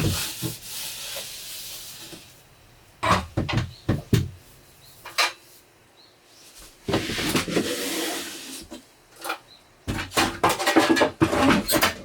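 Irregular knocks and light clatter of objects being handled at close range: a cluster about three seconds in and a quicker run near the end. Between them is a stretch of rustling, hissy noise.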